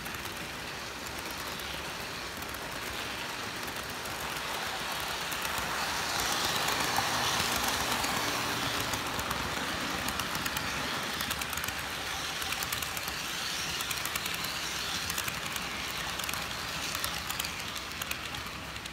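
Model train running along its track, swelling louder about six seconds in as it comes closer and then easing off, with fast light clicking through the second half.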